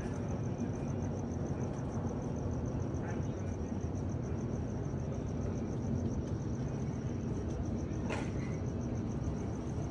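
A cricket chirping steadily in a fast, even pulse, high-pitched, over a steady low rumble. A brief click comes near the end.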